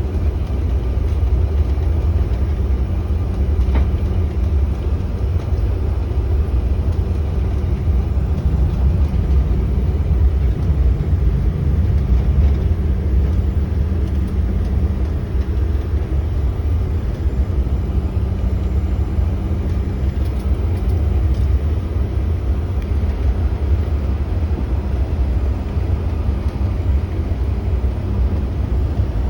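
Cabin noise of a CRJ-900 airliner taxiing: the steady low rumble of its rear-mounted turbofan engines at taxi power and the wheels rolling on the taxiway, heard from inside the front of the cabin. A steady hum runs under it and fades out about two-thirds of the way through.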